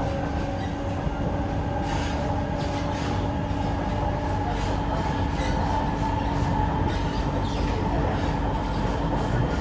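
Kawasaki–CRRC Sifang C151A metro train running at steady speed between stations, heard from inside the car. Wheels on rail give a continuous rumble under a steady, unchanging motor hum, with scattered faint clicks.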